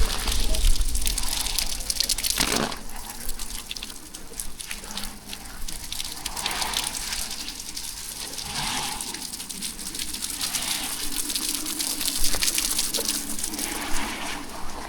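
Rain falling steadily: a continuous hiss of water, with a few louder swells of splashing, the strongest about two and a half seconds in.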